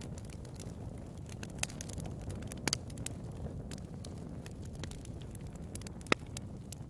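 Wood fire burning in a fireplace: a steady low rumble with irregular sharp crackles and pops, the loudest pop about six seconds in.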